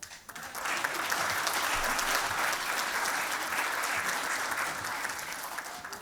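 Audience applauding at the end of a choir's carol, starting about half a second in, holding steady and fading out near the end.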